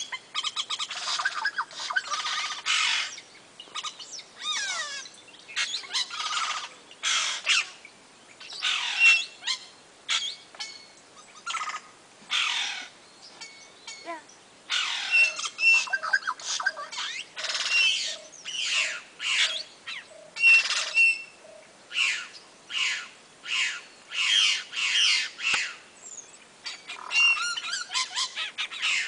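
A colony of small birds calling around their hanging nests in palm trees: a busy, overlapping chatter of harsh squawks, chirps and short whistled notes. It is thickest at the start and near the end.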